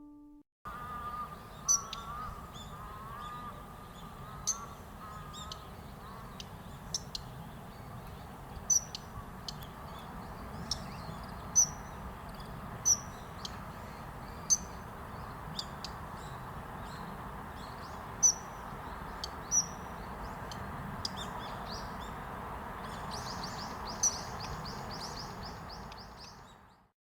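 Daurian redstart giving short, sharp high calls, one every one to two seconds, over steady outdoor background noise. A rapid high trill comes in near the end.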